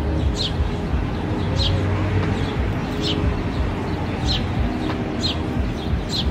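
A bird repeating a short, high chirp that falls in pitch, about once every second, over a steady low rumble of distant city traffic.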